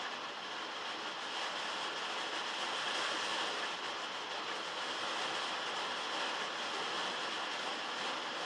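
Heavy rain falling on a metal roof, heard from inside a log shed: a dense, steady hiss of drops that swells slightly about three seconds in.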